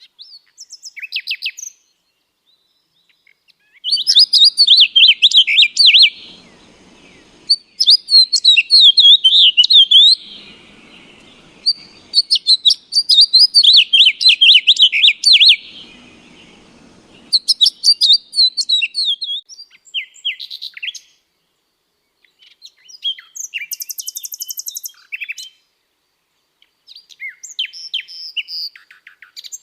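Caged show birds chirping and twittering in fast runs of high notes. Three long, loud bursts come in the first half, followed by shorter, scattered calls.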